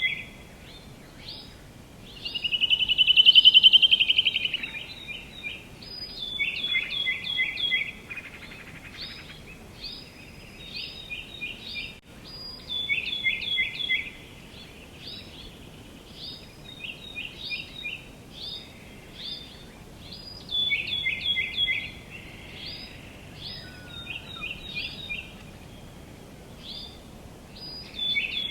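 Songbirds singing: repeated phrases of short, quick down-slurred notes, several to a phrase, coming every few seconds. A louder rapid trill sounds about three seconds in, over a faint steady outdoor background.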